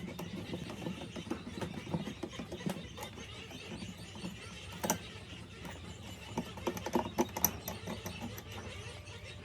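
Hand work on metal parts: irregular clicks and clanks, the sharpest about five seconds in and a cluster of them around seven seconds in.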